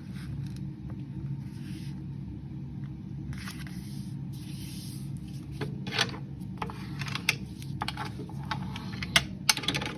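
Sheet of paper being folded and creased by hand: soft rustles, then a string of short crisp taps and crinkles in the second half, over a steady low hum.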